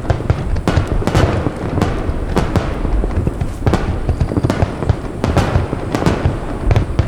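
Aerial fireworks barrage: shells bursting in rapid, overlapping booms, several a second, over a continuous low rumble and crackle.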